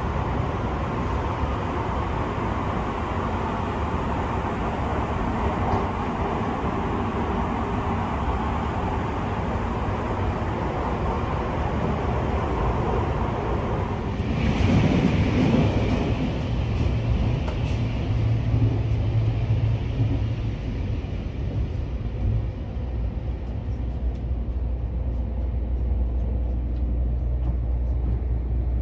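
Running noise of the Sunrise Seto sleeper train, a 285 series electric multiple unit, heard inside the car: a steady rumble of wheels and rails. About halfway through there is a brief louder surge, and the rumble is deeper after it.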